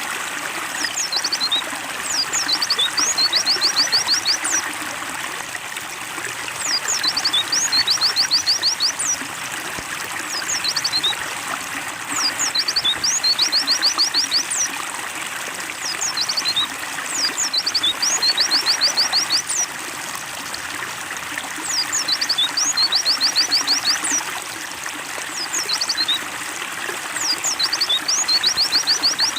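Water trickling steadily under the song of a white-eye (pleci). Its phrase of quick high chirps and a fast run of short notes repeats about every five seconds.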